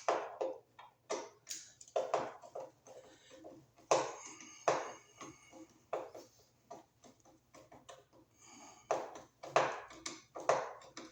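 Screwdriver tightening a ground screw down on a looped copper ground wire in an electrical box: a string of irregular clicks, taps and short scrapes, about one or two a second.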